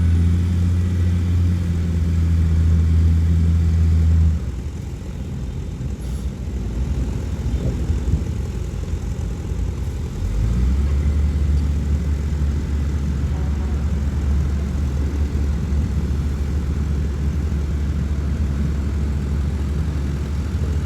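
Diesel engine of heavy earthmoving equipment running steadily with a loud low drone that cuts off about four seconds in. A rougher, quieter stretch follows, then a steady low engine drone returns about ten seconds in and holds.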